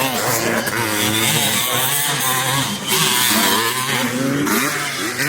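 Several vintage motocross bikes racing on a dirt track, their engines revving up and down with overlapping, shifting pitches.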